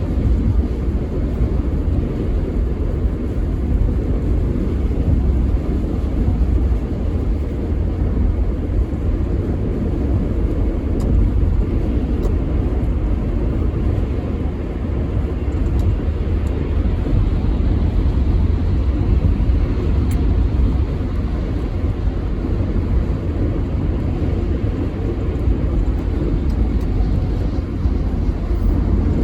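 A steady low rumble that runs on without a break, with a few faint ticks.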